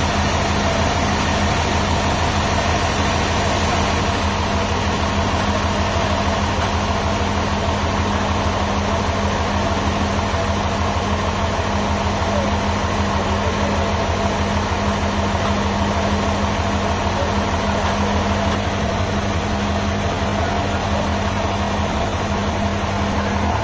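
A large engine running steadily at a constant speed, a low, even hum.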